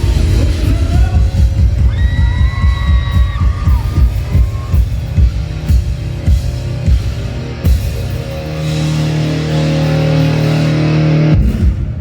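Live rock band playing the close of a song with a steady drum beat, then a held chord that stops abruptly near the end, with high screams from fans over the music.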